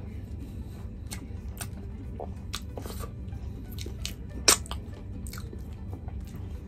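Close-up wet chewing and mouth smacks of a mouthful of chicken curry and rice, a string of short sharp clicks with one loud smack about four and a half seconds in.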